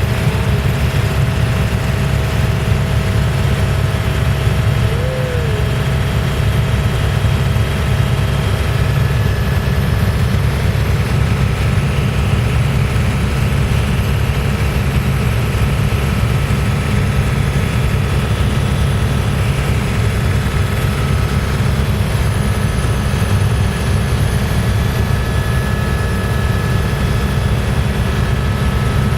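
Helicopter in flight, heard from inside the cabin: a loud, steady rotor and engine drone, with a few faint steady high tones over it.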